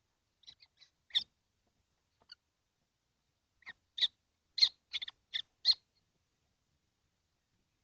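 Kestrels calling: short, high-pitched calls, a few scattered at first, then a quick run of about seven.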